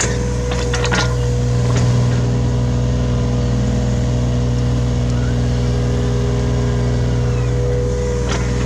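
Hitachi Zaxis 33U mini excavator's diesel engine running steadily as it digs, with a few sharp knocks about a second in and again near the end.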